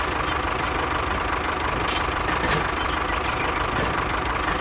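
Tractor engine running steadily at idle, with a few faint clicks.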